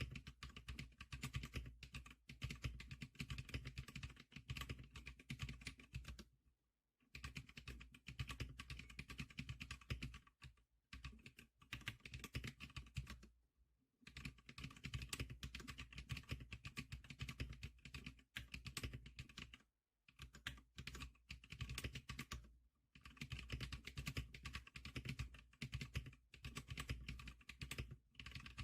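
Typing on a Zlickr SPK100 keyboard: rapid runs of key clicks, broken several times by short pauses.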